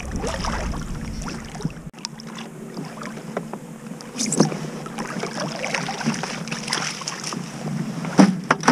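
Water splashing and dripping around a kayak while a crab trotline is worked alongside, with wind buffeting the microphone. A few sharp knocks and splashes stand out, one about halfway through and two close together near the end.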